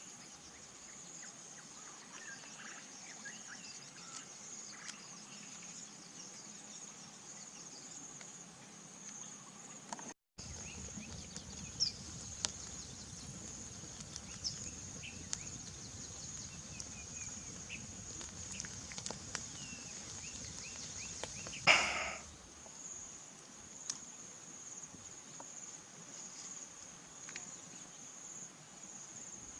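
Steady high-pitched insect drone, crickets or similar, with scattered short faint chirps. One short, loud sound stands out about 22 seconds in.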